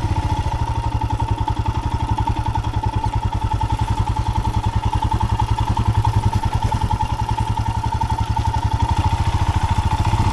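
Royal Enfield motorcycle engine running at low revs with a steady, even beat, while a steady high whine sits over it.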